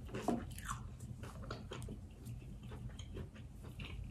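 Close-miked chewing of a mouthful of fried chicken pot pie egg roll, mouth closed: soft, irregular wet clicks and small crackles, with one slightly louder mouth sound about a third of a second in.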